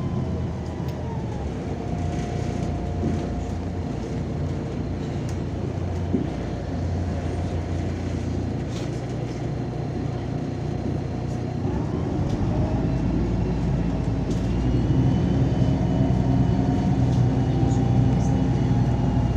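MAZ-203 city bus heard from inside the cabin while driving: steady engine and road rumble with a drivetrain whine that changes pitch. About twelve seconds in, the whine rises and the rumble grows louder as the bus accelerates.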